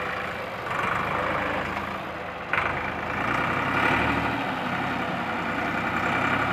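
Massey Ferguson tractor's diesel engine running steadily, with a sharp knock about two and a half seconds in.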